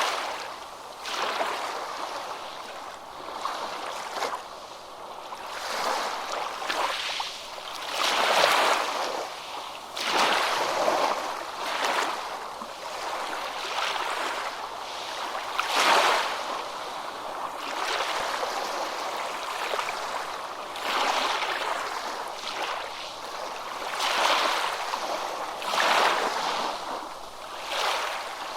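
Ocean surf: waves breaking and washing in one after another, each a rush of hiss that swells and fades every two to four seconds.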